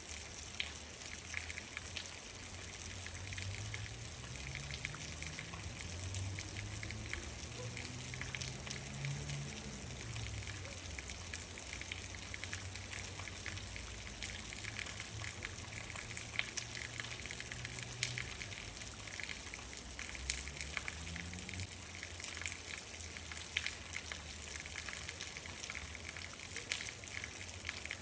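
Steady rain falling on a hard surface, a constant hiss with many sharp individual drop ticks. Beneath it a low rumble swells, its pitch gliding up and down, about a third of the way in and briefly again about three quarters of the way through.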